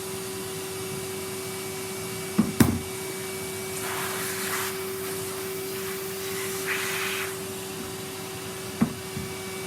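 Henry canister vacuum cleaner running with a steady motor hum. It hisses briefly twice as it takes in air. A couple of sharp knocks come about two and a half seconds in, the loudest sound, and one more near the end.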